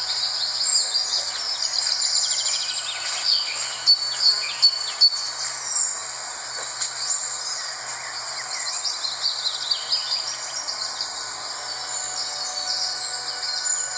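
Several wild birds chirping and twittering over a steady high insect trill. A few sharp ticks stand out about four to five seconds in.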